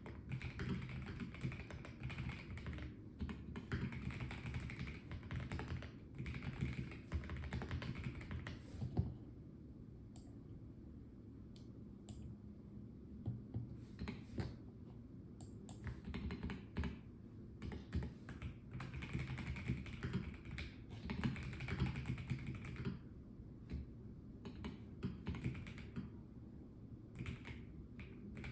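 Typing on a Melgeek Mojo84 plastic mechanical keyboard: fast runs of key clicks, then a pause of a few seconds with only scattered keystrokes, then another fast run.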